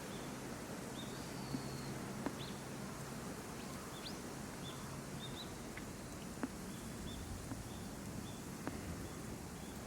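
Small birds calling: a series of short, high chirps at an uneven pace, with a quick rising note about four seconds in. A few sharp clicks stand out, over a steady low background rumble.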